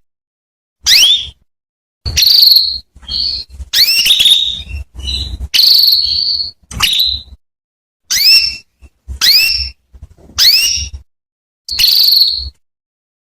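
Female domestic canary calling: about ten short, high chirps at roughly one a second, most sweeping quickly upward in pitch, a few held briefly as a steady whistle.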